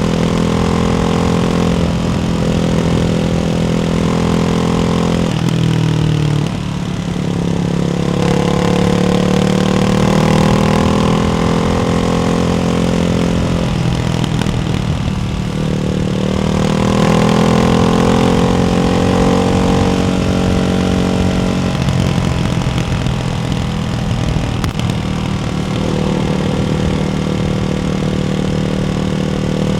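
Ducati Hypermotard 698's single-cylinder engine through a baffled Termignoni exhaust, running under load at varying speed. Engine speed drops and climbs back twice, about six and fifteen seconds in, then eases off gradually.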